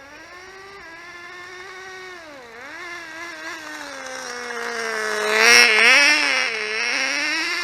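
Tiny glow engine of a 1/16 radio-controlled car running with a high buzz, its pitch dipping and rising again and again with the throttle, growing louder to a peak about five and a half seconds in.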